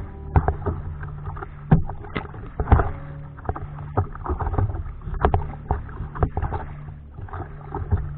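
Kayak on the sea: irregular water slaps, splashes and knocks against the hull over a steady low rumble.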